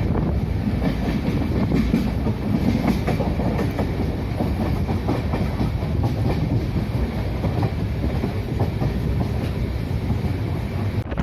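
Passenger train running on the rails, a steady low rumble with the wheels clattering over the track.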